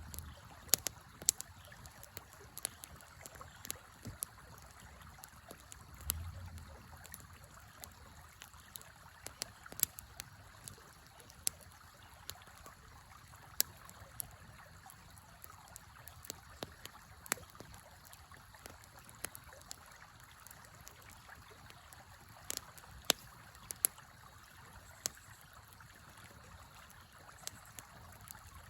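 Campfire crackling with sharp, irregular pops over the steady rush of a river flowing nearby.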